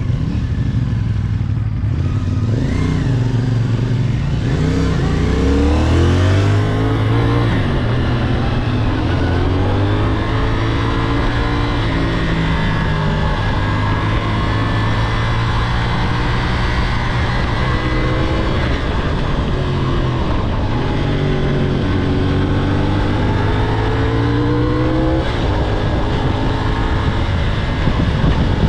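2023 CFMOTO 450SS sport bike's parallel-twin engine under way, revving up through the gears and easing off, its pitch climbing and dropping back several times.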